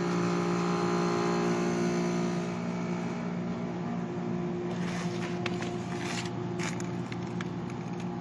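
Air conditioner condensing unit running, a steady machine hum at several fixed pitches while its refrigerant line is frozen over. Scraping, crackling handling noises come in about five seconds in.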